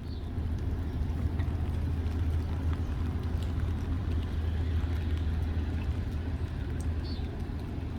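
Low, steady drone of a large engine under a haze of outdoor noise, stepping up slightly about half a second in and holding.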